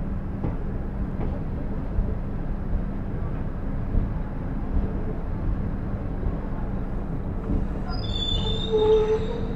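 Running noise of a passenger train heard from on board: a steady rumble of coach wheels on the track with a low hum and scattered knocks. About eight seconds in, high squealing tones join it.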